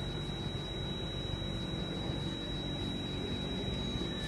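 Alstom Metropolis C830 metro train running, heard from inside the carriage: a steady low rumble with one constant high-pitched whine over it.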